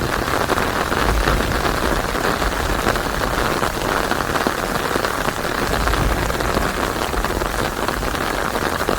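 Steady heavy rain: a dense, even patter of drops, with a low rumble swelling up twice.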